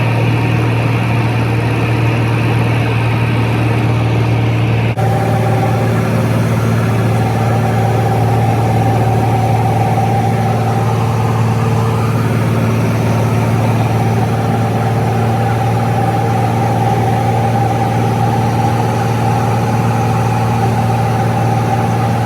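Aircraft engine drone heard from inside the cabin in flight: a loud, steady hum with several held tones. The sound changes abruptly about five seconds in, as if cut, then continues steady with a higher tone added.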